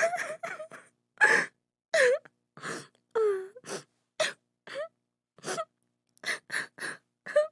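A woman sobbing: a string of short gasping breaths and broken wails, some dropping in pitch, with brief silences between them.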